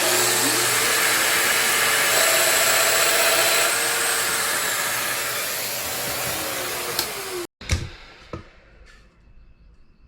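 An electric woodworking power tool's motor runs with a loud rushing whine for about seven seconds, spinning up at the start and winding down before it cuts off. A few short knocks follow.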